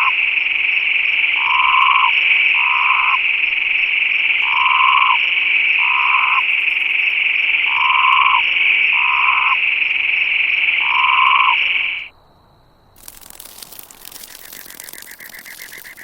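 Frogs calling: a loud, steady high trill with short lower croaks repeating, often in pairs, about eight in all. They cut off about twelve seconds in, and a quieter, rapid rattling follows.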